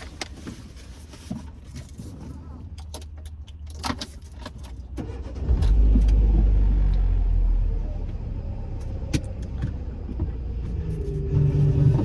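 Keys jangling and clicking, then a car engine starts about five and a half seconds in, runs loudly for a couple of seconds and settles to a steady idle. Music with steady tones comes in near the end.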